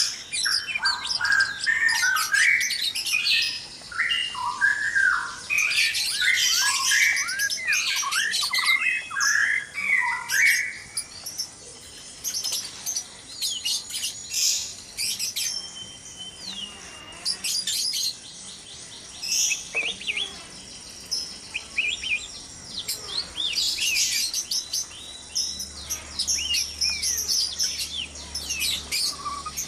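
White-rumped shamas calling: a dense chatter of quick whistled notes and sharp high chips that thins out to scattered chips and short whistles about a third of the way in.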